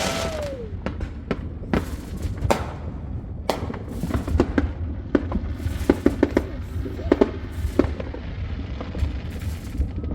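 Consumer fireworks going off along a residential street: a string of sharp bangs and pops at irregular intervals, at times several in quick succession.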